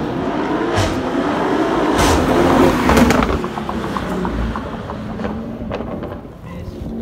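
Audi RS6 Avant's twin-turbo 4.0 V8 accelerating past, the engine note rising to its loudest about three seconds in and then fading as the car pulls away. A few sharp exhaust cracks sound around the peak.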